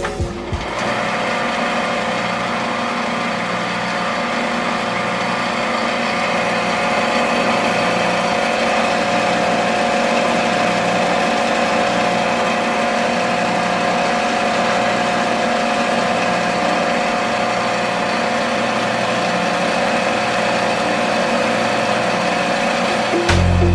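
Small motor running steadily with a constant whine, no change in speed.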